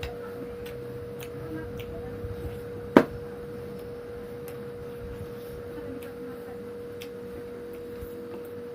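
Eating sounds during a mukbang: faint scattered mouth clicks, one sharp click about three seconds in, over a steady high hum.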